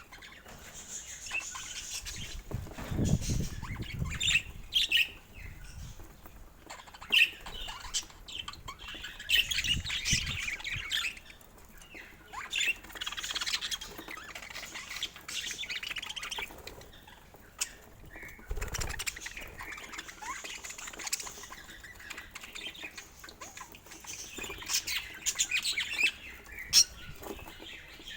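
Budgerigars chirping and chattering in irregular bursts, with scattered sharp clicks and a few dull low thumps.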